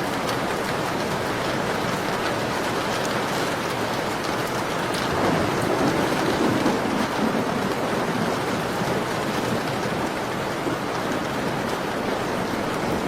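Steady rain pattering against a window, swelling louder for a couple of seconds around the middle.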